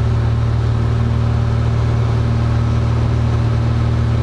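Cessna 172F's six-cylinder Continental O-300 engine and propeller droning steadily in flight, heard from inside the cabin as a deep, unchanging hum.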